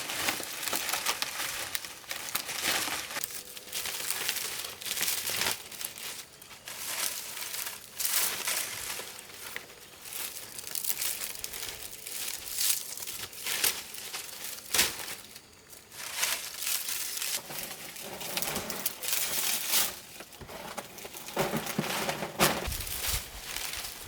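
Irregular crackling and rustling, like dry material being handled or crushed, going on without a break.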